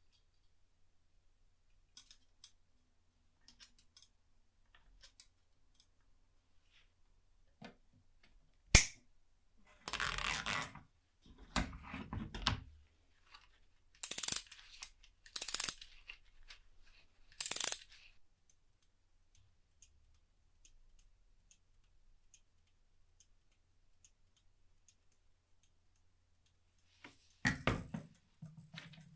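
Workshop handling noises: scattered light clicks, one sharp knock about nine seconds in, then several short noisy bursts about a second each, and one more near the end.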